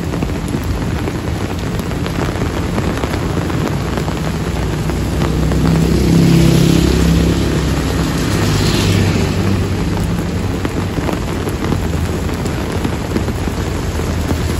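Heavy rain falling steadily on a wet road. Motor scooters pass through the middle, their engines humming and their tyres hissing on the wet surface, loudest from about six to nine seconds in, and another scooter comes closer near the end.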